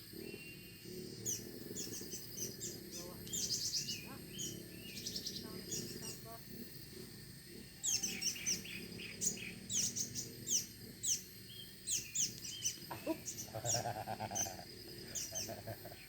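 Small songbirds chirping: quick, sharp, high chirps, scattered at first and coming thick and fast from about halfway through. A brief lower buzzy sound comes about thirteen seconds in.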